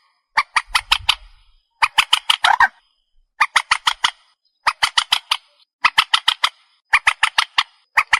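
Recorded calls of the trích ré, a Vietnamese marsh bird: bursts of about six sharp, harsh notes in quick succession, each burst under a second long, repeating roughly once a second. A faint low thump sounds about a second in.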